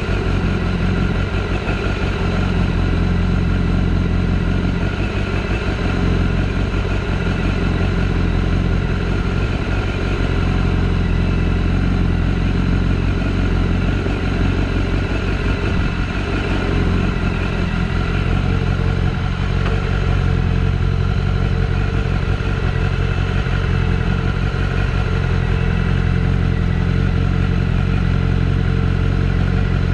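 BMW S1000RR's inline-four engine idling steadily at an even pitch, with no revving.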